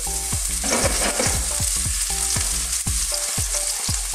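Minced garlic and ginger sizzling in hot oil in a nonstick pan while being stirred with a wooden spatula, with a burst of stirring noise about a second in.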